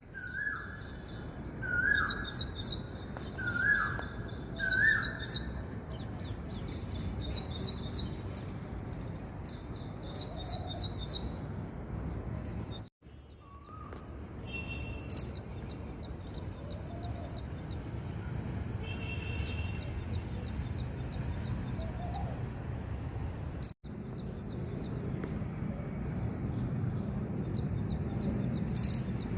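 Several birds chirping and trilling over a steady low background rumble, with four louder calls in the first five seconds. The sound cuts out briefly twice.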